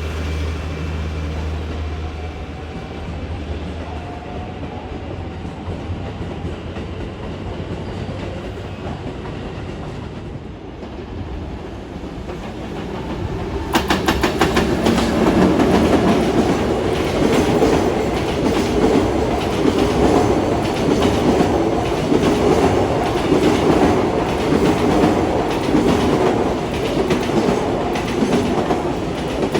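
A train passes at speed on electrified main line track: after a quieter rumble of its approach, it arrives suddenly about halfway through and goes by close, with a rapid clatter of wheels over rail joints. A low hum fades away in the first few seconds.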